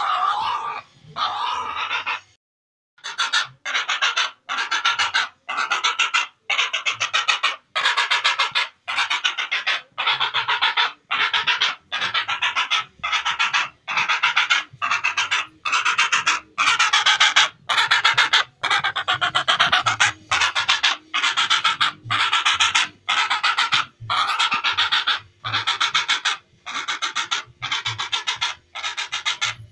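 Heron (cangak) calls: harsh, rasping croaks repeated steadily, more than one a second, with a short break about two and a half seconds in.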